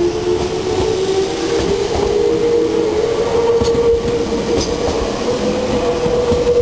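Meitetsu 7000 series Panorama Car electric train moving past along the platform: continuous running rumble with a steady whine that slowly rises in pitch.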